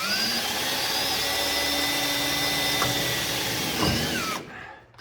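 Electric drill spinning up and running steadily while drilling a mounting hole in the car's fender sheet metal, dipping briefly in speed near the end, then winding down and stopping.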